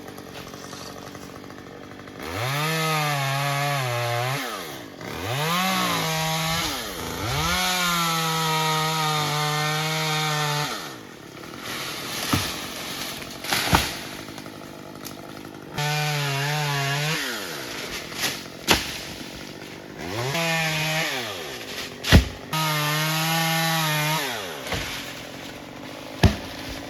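Chainsaw revved up and held at full speed in about six bursts of two to three seconds each, cutting wood, idling down between cuts. Several loud, sharp cracks fall in the pauses.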